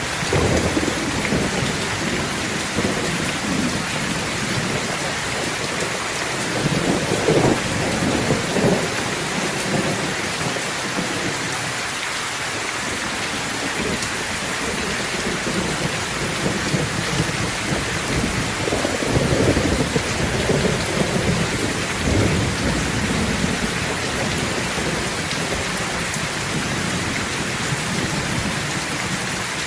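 Heavy rain falling steadily, with thunder rumbling at intervals: a first roll about a second in, others around 7 to 9 seconds, and the strongest swells around 19 to 22 seconds.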